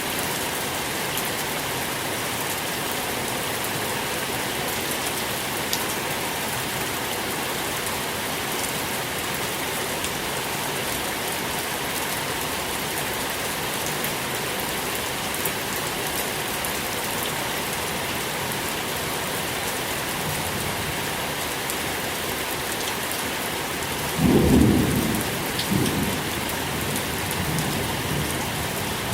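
Steady rain falling, with a roll of thunder rumbling in low and loud about 24 seconds in, fading out over a couple of seconds.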